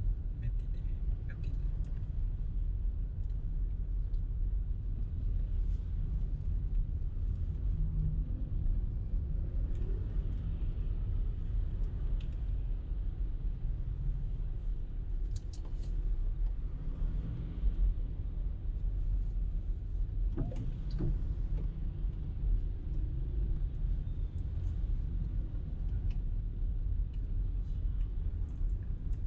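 Car driving in rush-hour traffic: a steady low rumble of engine and road noise, with a few faint short clicks and knocks.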